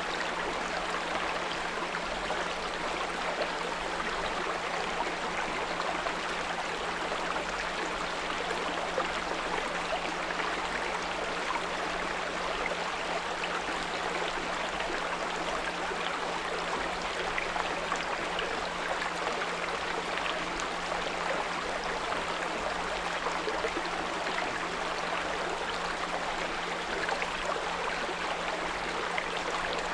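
Small brook babbling and trickling steadily, with a 174 Hz pure tone humming evenly beneath the water.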